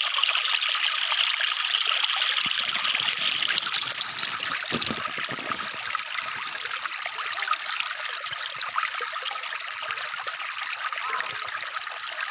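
Falling water trickling and splashing in an even, continuous rush.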